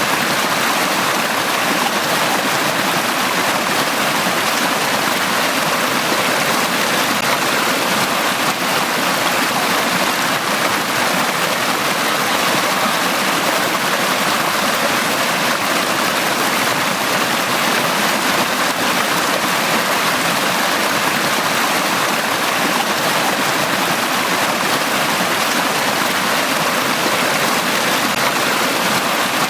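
Forest stream running over rocks: a steady, even rush of flowing water with no breaks.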